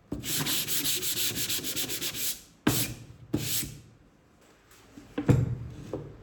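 Sandpaper rubbed by hand on plywood: about two seconds of rapid back-and-forth strokes, then two short single strokes. A sharp knock follows about five seconds in.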